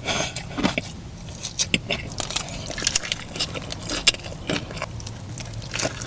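A person biting into and chewing a Jack in the Box taco close to the microphone, with irregular crisp crunches.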